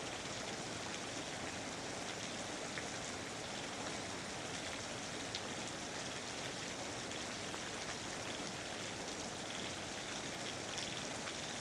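Steady rain falling on rainforest foliage: an even hiss with scattered single drops ticking through it.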